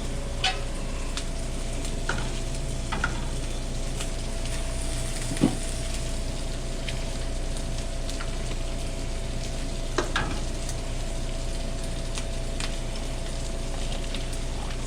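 Food sizzling in hot oil on a restaurant cooking line, a steady frying hiss over a constant hum, with a few sharp clicks of utensils, the loudest about five and a half seconds in.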